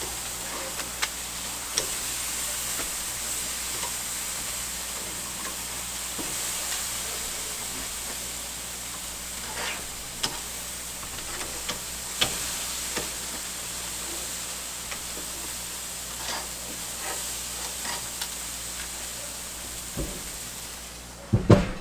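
Pork chops sizzling over direct charcoal heat, a steady hiss with scattered crackles and pops of fat. Near the end comes a loud clatter, and the sizzle then cuts off sharply.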